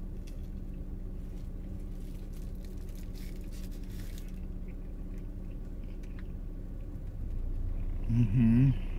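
A person biting into and chewing a soft flour-tortilla taco of shredded pork carnitas, with soft, wet chewing sounds and a brief rustle of the paper wrapper about three seconds in. Near the end she gives a short hummed "mmm" through a full mouth.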